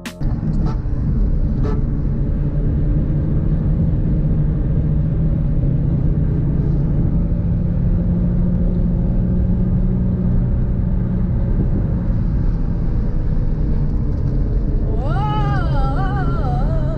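Car engine and road noise heard from inside the moving car, a steady loud drone from a non-turbo engine under way. Near the end a high wavering whine rises and falls for about a second and a half.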